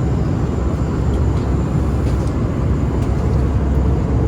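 Steady cabin noise of a jet airliner in flight, mostly low-pitched, from the engines and the air rushing past the fuselage.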